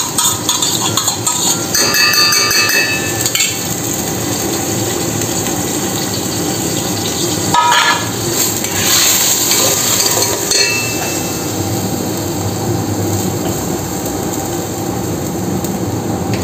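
Chicken and onion sizzling in hot oil in a steel pot while whisked yogurt is scraped in from a steel plate, with clinks and scrapes of a metal slotted spoon against the pot and plate, mostly in the first few seconds and again around the middle.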